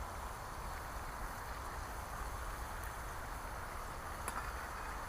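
Food frying in a pan over campfire coals, a steady sizzle, with a low rumble underneath and one sharp click about four seconds in.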